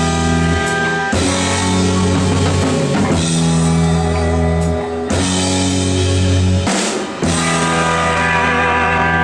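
Live rock band playing loudly: electric guitars, baritone guitar and drum kit on sustained chords with drum hits. There is a brief stop about seven seconds in before the band comes back in for the song's closing bars.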